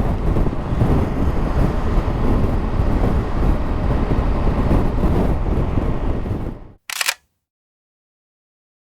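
Riding noise from a Triumph Tiger 1200 GT Explorer motorcycle: engine and wind rushing past the microphone, steady, then fading out near seven seconds in. It is followed by a single short click like a camera shutter, then silence.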